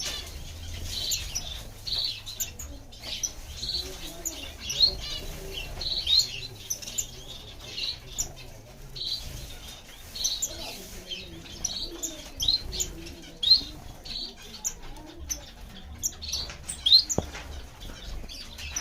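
Diamond firetail finches chirping: short, high calls, some rising, repeating every half second or so, amid fluttering wings and small clicks.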